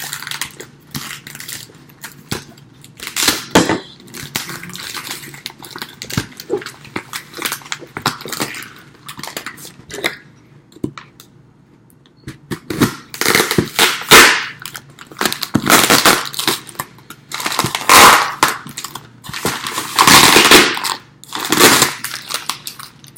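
Snake shipping box being opened by hand: tape being cut, and cardboard and packing being pulled apart, rustled and crackled, with sharp cracking snaps. It is quieter for a couple of seconds about halfway through.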